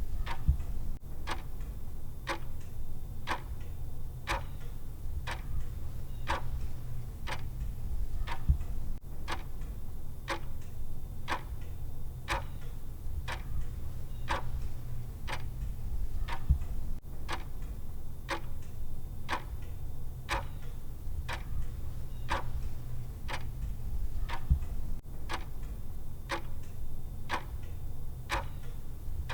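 Clock-style ticking from a countdown timer's tick track, steady and even at about two ticks a second, over a low steady hum.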